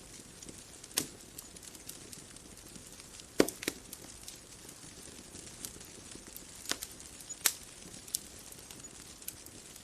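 Bonfire crackling: scattered sharp pops and faint ticks over a soft steady hiss, the loudest pop about three and a half seconds in.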